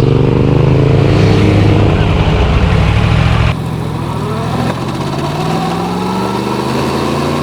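Yamaha MT-10's crossplane inline-four engine accelerating under the rider, its pitch climbing steadily; about three and a half seconds in it suddenly drops in pitch and loudness at a gear change, then climbs again.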